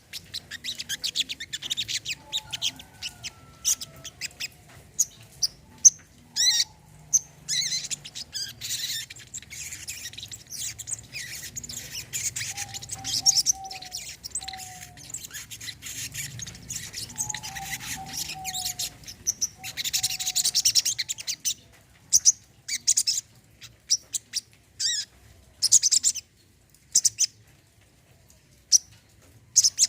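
Brown-throated sunbird (kolibri kelapa) singing: rapid high twittering chirps and trills, with a few short lower sliding whistles. The song grows sparser over the last third, with separate single chirps and gaps between them.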